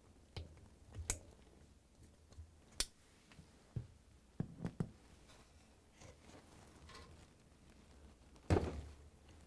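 Pliers and spring hose clamps being worked on a washer's hoses: scattered light clicks and knocks, with a louder thump about eight and a half seconds in.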